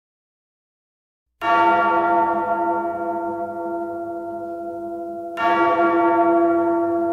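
A large bell tolling: struck once about a second and a half in and again about four seconds later, each stroke ringing on with a slowly fading hum.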